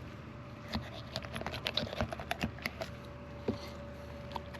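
Irregular light clicks and taps of hands-on work, busiest in the first half, over a faint steady hum.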